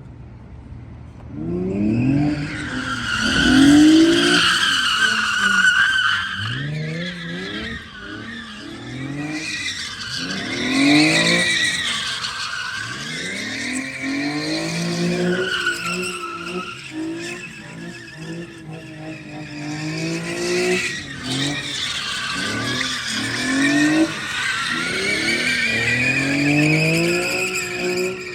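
Car engine revving up and falling back again and again, about every two seconds, over a continuous high tire squeal from a car sliding under power.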